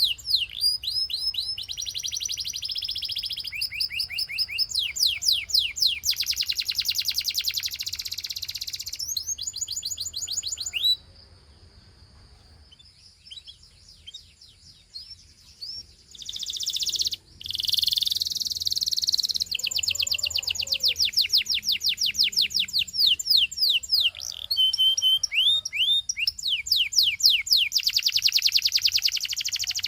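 Gloster canary singing in rapid trills of fast repeated high notes, phrase after phrase, with a quieter break of a few seconds about midway before the song picks up again.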